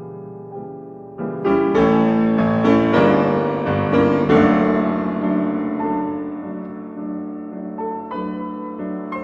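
Background piano music: a slow passage that swells louder about a second in, then gradually fades.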